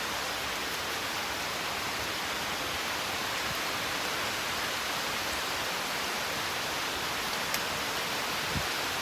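Steady heavy rain falling, an even hiss, with two faint ticks near the end.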